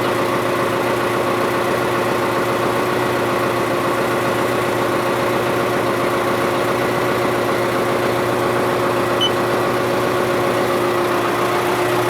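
Valtra T160 tractor's diesel engine idling steadily just after a cold start in frost, with a constant whine over the engine drone.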